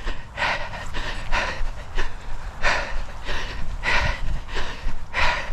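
A person breathing hard and fast close to the microphone: quick, even puffs of breath about three every two seconds, the panting of effort during a running interval.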